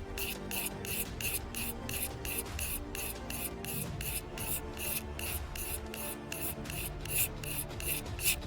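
A magnesium bar being scraped in quick, even strokes, about four a second, shaving off magnesium. Background music plays underneath.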